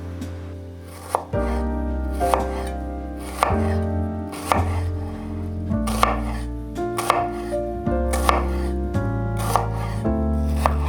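Knife chopping on a cutting board, sharp cuts about once a second, over background music with sustained chords.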